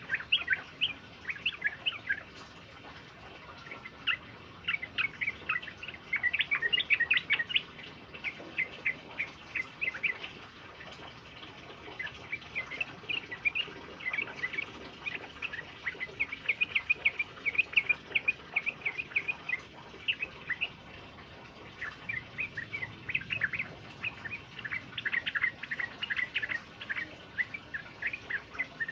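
Male bulbul singing long, rapid chattering phrases of bright chirps, each run lasting a few seconds, with short pauses between them and a faint steady hiss beneath.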